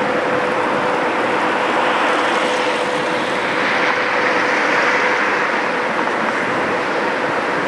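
Steady loud mechanical noise with a constant hum, swelling slightly about halfway through.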